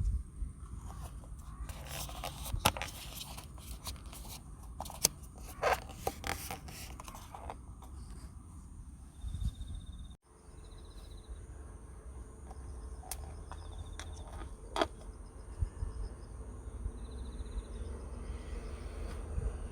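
Low wind rumble on the microphone, with scattered scraping and clicking handling sounds in the first half. After an abrupt break, a few short high bird trills are heard over the wind.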